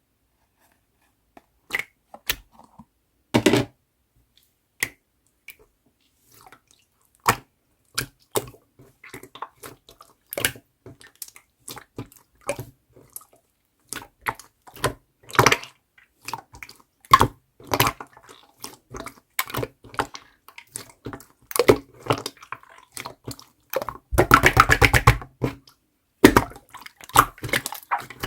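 Clear slime being worked by hand, giving irregular wet squishes and sharp bubble pops. Near the end comes a quick run of rapid pops.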